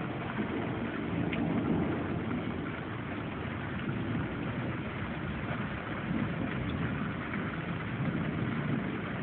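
Steady rain falling in a severe storm, an even hiss.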